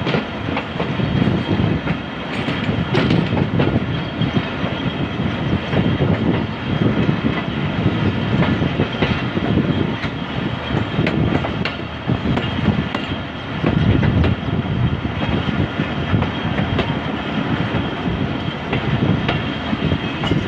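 Passenger train running along the track, heard from on board: a steady, loud rumble and rattle of the wheels on the rails, with occasional faint clicks.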